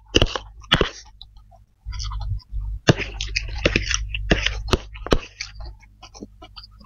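Close-up eating of spicy fried flat rice noodles with forks: wet chewing and mouth sounds, with sharp clicks of forks against the dish. A low steady hum runs underneath from about two seconds in.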